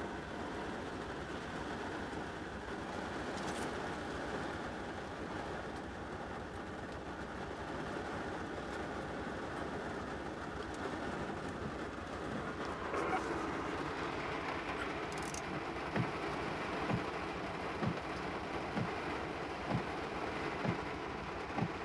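Steady rain on a car, joined about halfway through by the noise of an Amtrak passenger train rising close by. Evenly spaced low knocks follow, about one a second.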